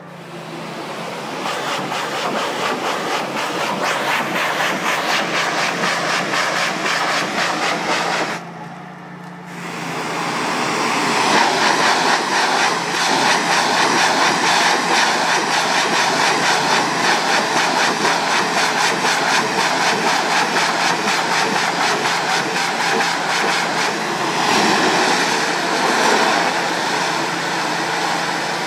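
Pressure washer spray blasting water onto an awning: a loud, steady hiss that cuts out for about a second roughly a third of the way in, then starts again, over a steady low hum.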